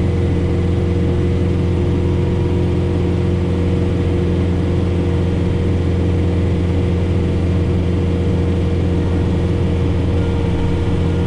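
John Deere 4066R tractor's diesel engine running steadily under load, driving a Frontier SB1174 snowblower through the PTO at about 530 rpm in heavy wet snow, heard from inside the cab. The drone holds an even pitch throughout.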